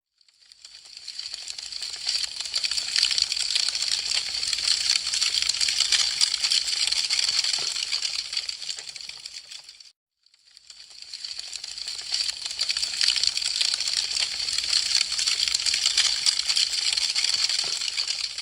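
Wood fire crackling with dense, rapid pops and snaps. The crackle fades in, then fades out to a moment of silence about ten seconds in, and rises again in the same way.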